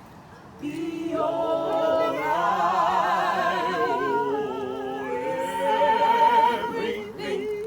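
A group of voices singing a cappella, holding long notes with vibrato; the singing begins just after the start and is loudest near the end.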